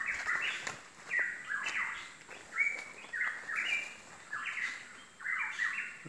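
A bird calling in bursts of quick chirping notes, about one burst a second.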